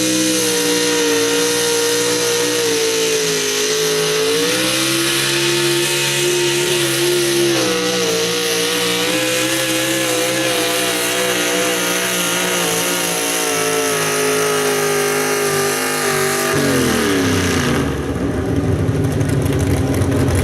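Super stock pulling truck's engine held at high revs under full load while pulling the sled, its pitch wavering slightly. About seventeen seconds in the revs drop away as the throttle comes off, leaving a lower, rougher rumble.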